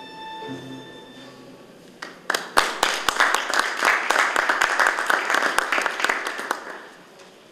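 The last held note of music fading out, then an audience applauding from about two seconds in for some five seconds before the clapping dies away.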